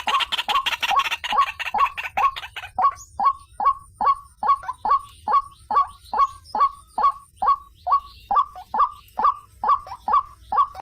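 White-breasted waterhen (ruak-ruak) calling: a fast chatter at the start settles into a steady series of short, repeated harsh notes, about three a second.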